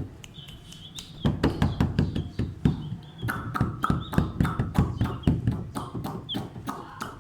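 Quick, uneven tapping, several sharp taps a second, starting about a second in, with a few short high chirps among them.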